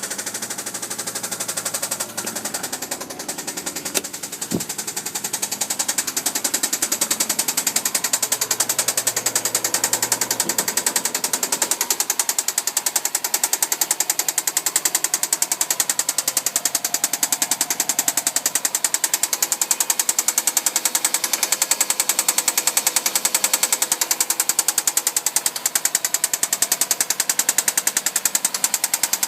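Subaru Impreza flat-four boxer engine running with a rapid, steady, loud knocking-tapping rhythm. The owner does not know the cause: valve train, roller rockers, or a knocking rod have been suggested.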